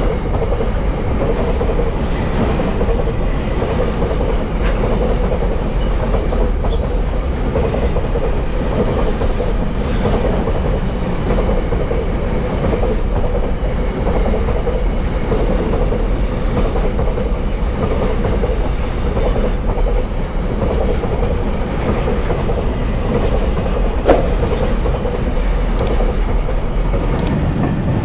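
Goods train's wagons rolling past in a steady rumble, wheels clattering over the rail joints, with a few sharp clicks near the end.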